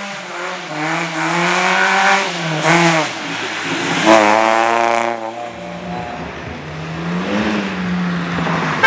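Slalom competition car engine revving hard, its pitch climbing under acceleration and dropping back on shifts and lifts several times over. Around 5.5 s it settles into a lower, steadier note before one more short rise.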